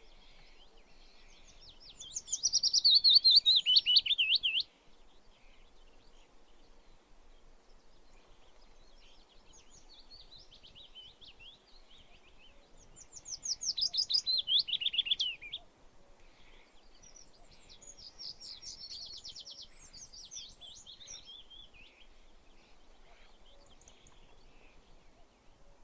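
Songbirds singing: two loud song phrases, each a rapid run of notes falling in pitch and lasting about two and a half seconds, with softer, more broken song from other birds between them, over a faint outdoor background.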